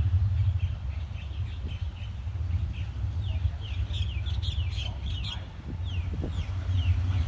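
Birds chirping over and over in short, quick, falling calls, over a steady low rumble that eases off partway through and swells again near the end.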